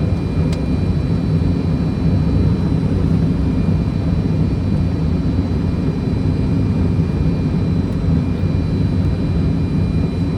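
Steady cockpit noise of a Fokker 100 airliner on approach: a low rush of airflow and the hum of its rear-mounted Rolls-Royce Tay turbofans, with faint steady high tones and a single light click about half a second in.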